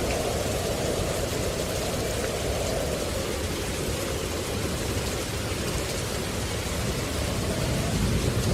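Steady rain falling, an even hiss with scattered faint drop ticks, and a low rumble that swells a little near the end.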